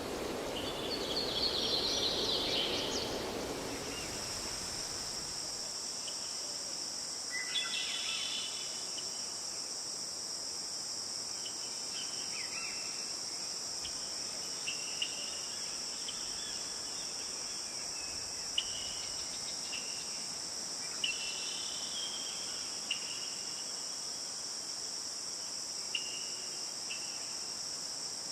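Steady, high-pitched insect chorus, crickets or similar, that starts abruptly about four seconds in and holds steady, with short bird chirps scattered over it. It is preceded by a rustling noise.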